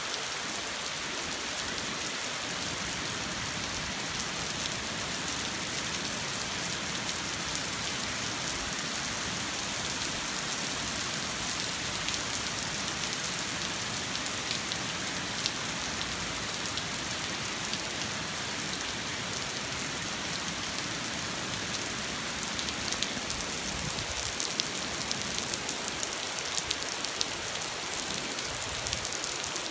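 Steady rain pattering on a street, a dense hiss of drops, with sharper individual drop hits picking up in the last several seconds.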